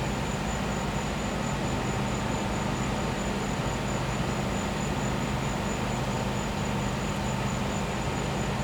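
Gas-powered generator running with a steady, even hum, and a high continuous cricket trill above it.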